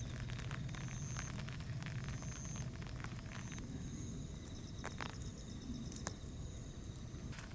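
Steady rain patter, with a faint short high tone repeating about once a second in the first half; the hiss thins out a little past halfway.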